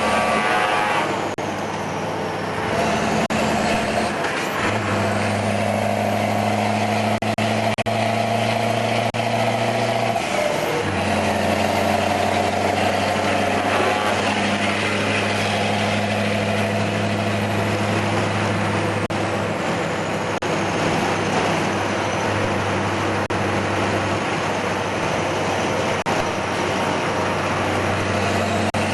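Scania 143M 500's V8 diesel truck engine running under load, its steady note stepping up and down in pitch several times.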